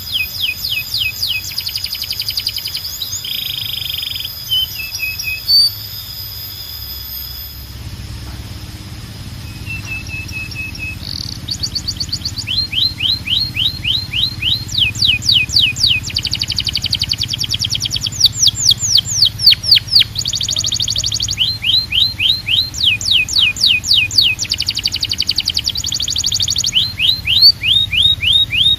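Domestic canary singing: fast rolling trills of quickly repeated sweeping notes, delivered in phrases with brief breaks, with a quieter, sparser stretch about a quarter of the way in. A faint low hum sits underneath from about a quarter of the way through.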